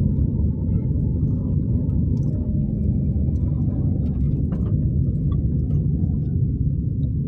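Steady low rumble of a Toyota Axio driving on city roads: engine and tyre noise, with a few faint ticks and clicks over it.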